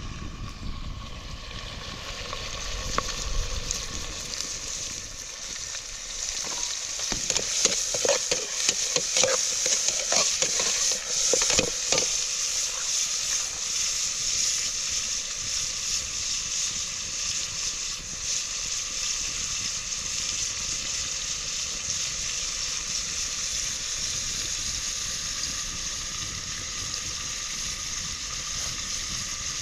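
Food sizzling in a hot pan with a steady hiss. A run of sharp clicks and knocks comes in the middle, as of stirring with a utensil against the pan.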